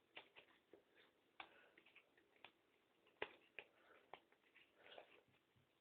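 Near silence with a few faint, irregular clicks and taps.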